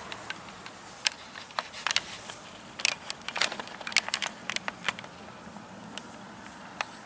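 Scattered light clicks and taps at irregular intervals, about a dozen in all, over faint room noise: handling noise as a part or the camera is moved about on a workbench.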